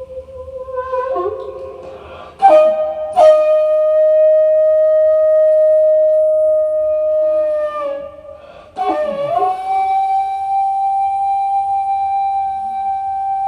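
Daegeum, the Korean large bamboo transverse flute, playing a slow improvised solo: long held notes with a bright buzzing edge, two sharp breathy attacks a few seconds in, a scooping bend about two-thirds through, then a higher note held long and sagging slightly in pitch near the end.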